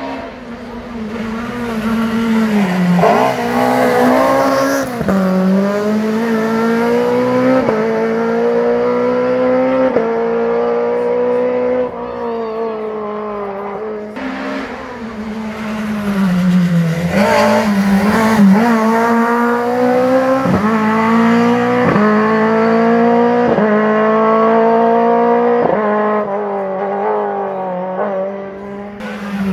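Rally car engine at full throttle, its pitch climbing and dropping back again and again as the driver changes up through the gears, in two long runs with a brief lull between them.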